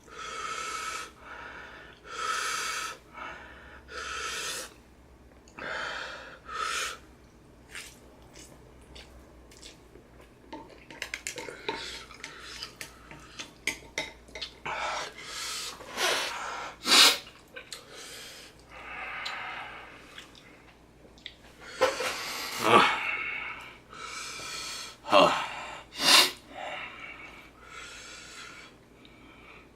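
A person breathing hard and audibly, blowing and drawing air through the mouth with sharp snorts and sniffs, from the burn of very spicy noodles. There are quick clicks of eating utensils about ten to fourteen seconds in.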